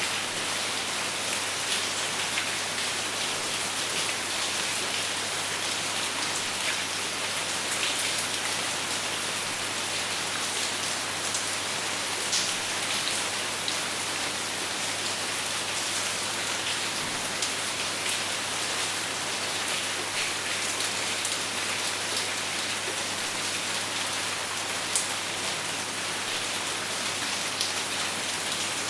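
Steady rain falling on a surface, an even hiss with scattered individual drops ticking through it, and no thunder.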